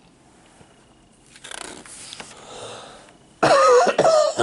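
A soft rustle, then about three and a half seconds in a man's short, loud, throaty non-speech vocal sound.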